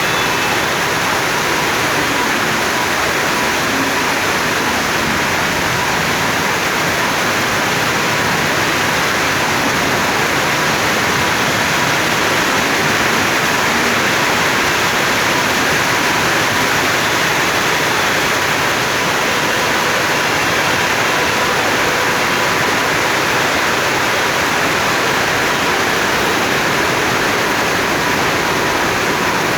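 Steady rain falling, a dense even hiss that never lets up.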